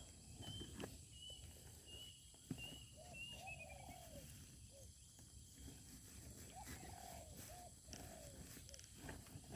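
Spotted doves cooing faintly in short arched phrases, twice in clusters. A thin series of high chirps from a small bird runs through the first few seconds and falls away at the end.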